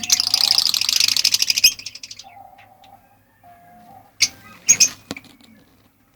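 Lovebirds giving a fast, shrill, buzzing chatter for nearly two seconds, then quieter, with two short sharp squeaks about four and five seconds in.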